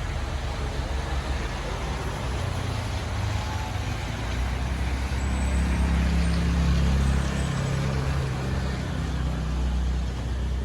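Road traffic: a steady wash of vehicle noise, with a heavy engine's low drone swelling about halfway through and easing off near the end.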